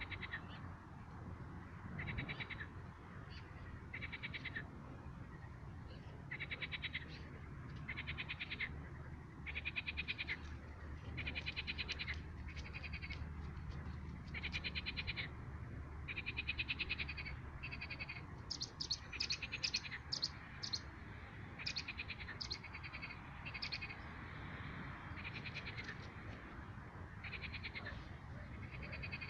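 Frogs calling: short croaks made of rapid pulses, repeated every second or two, with a run of quicker, higher calls in the middle, over a steady low rumble.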